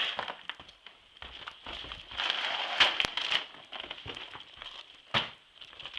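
Close rustling and crackling, heaviest in the middle, with a few sharp clicks, the loudest a little after five seconds in.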